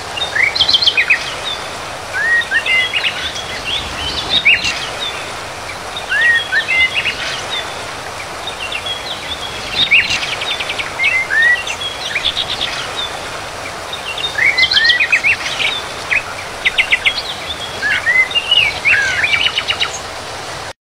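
Small birds singing: short chirps, curving whistled notes and fast trills in phrases repeating every two or three seconds over a steady background hiss. It cuts off suddenly near the end.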